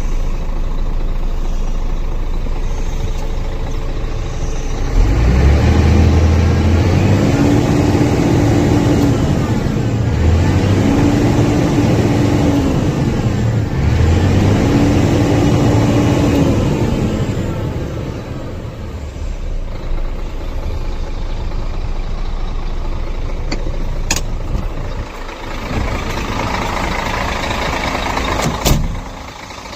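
Scania truck's diesel engine running, then from about five seconds in its engine speed rises and falls three times before settling back to a lower, steadier sound. Two short sharp clicks come near the end.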